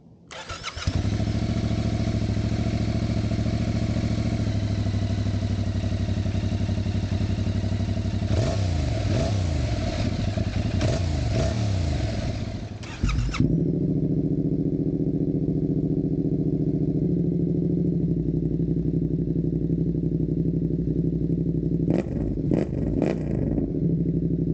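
Yamaha MT-07 parallel-twin motorcycle engine idling, with a few throttle blips that rise and fall about 8 to 12 seconds in. About 13 seconds in the sound cuts to another steady idle, with a couple of quick sharp revs near the end.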